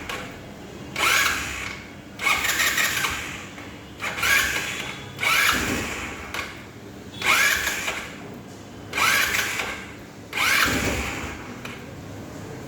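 Scooter engine being cranked from cold in about eight short bursts, each starting sharply and fading within a second or so, without catching and running between tries.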